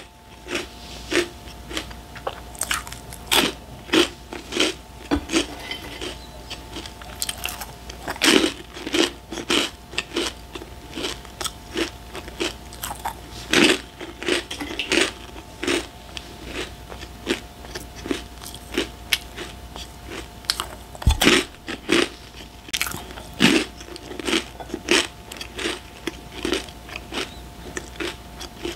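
A person biting and chewing crunchy snack chips and puffs close to a microphone: irregular crisp crunches, with one louder crunch about two-thirds of the way in.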